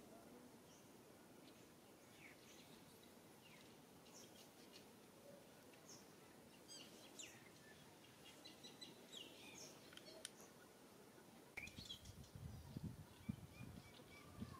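Quiet outdoor ambience with faint, scattered short bird chirps. Near the end, a few seconds of low rumbling noise.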